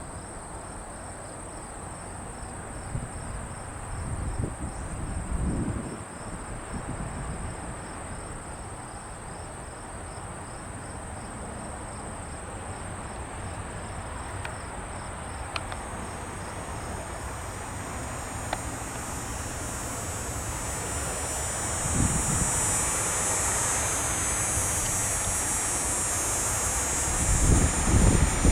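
Crickets chirping steadily, fading out about halfway through, while the jet noise of an approaching Airbus A350 with Rolls-Royce Trent XWB engines swells over the last ten seconds. Gusts of wind thump on the microphone a few times.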